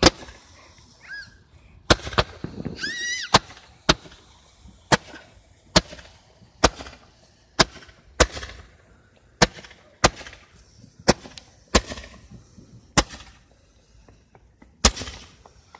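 Fireworks going off: a run of sharp, separate bangs, roughly one a second.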